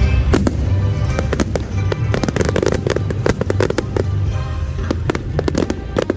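Fireworks going off: a rapid run of sharp bangs and crackles, heard over background music with a steady bass.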